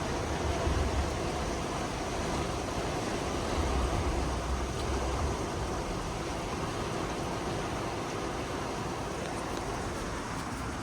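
Heavy thunderstorm rain pouring steadily with wind, low gusty rumbles swelling about a second in and again around four seconds.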